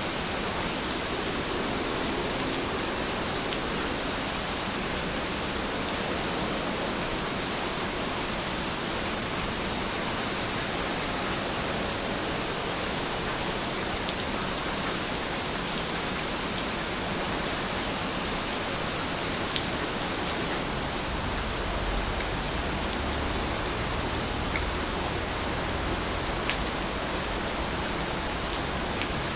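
Steady rain falling: a dense, even hiss of drops with a few sharper single drop ticks scattered through it. A faint low rumble swells in about two-thirds of the way through.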